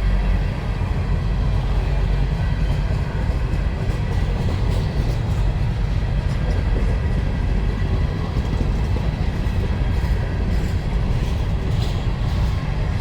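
Freight train of empty mine cars rolling past: a steady, loud rumble of wheels on rail with occasional faint clanks.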